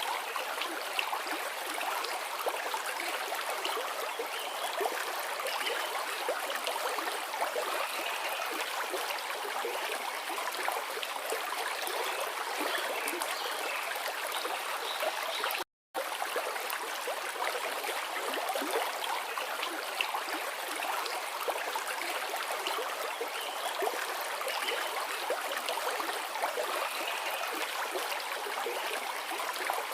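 Forest river flowing in a steady rush of water, cutting out completely for a split second about halfway through.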